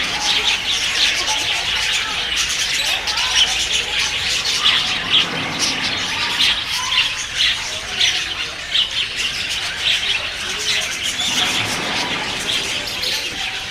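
Many birds calling at once, a dense chorus of short high calls, several a second, with no let-up.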